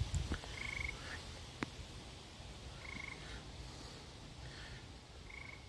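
Frogs calling: short pulsed trills, one about every two and a half seconds, with fainter calls from other frogs behind them, over a low rumble of wind.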